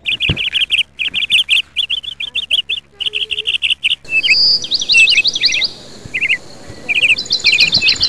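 Small birds chirping loudly in quick runs of short repeated notes, several a second. About four seconds in the calls change to higher, sharper, faster-repeated chirps.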